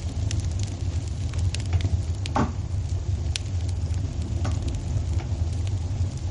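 Fireplace fire crackling: scattered small pops and snaps over a steady low rumble, with one louder pop about two and a half seconds in.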